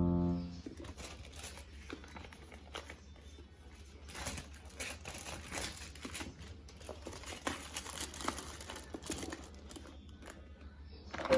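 Soft crinkling and rustling, as of something crinkly being handled, with many small scattered clicks and taps. It grows busier about halfway through.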